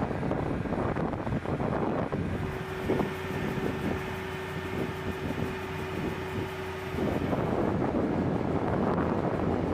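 Steady noise of running machinery, with wind buffeting the microphone. A single steady hum joins in about two seconds in and stops about seven seconds in, after which the noise grows a little louder.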